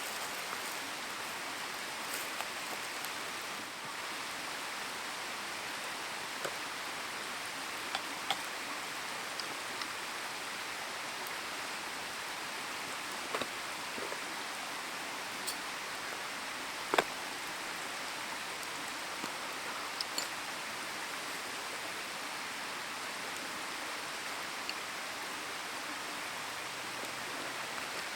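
Wood campfire burning, with a steady hiss and scattered sharp crackles and pops, the loudest about seventeen seconds in.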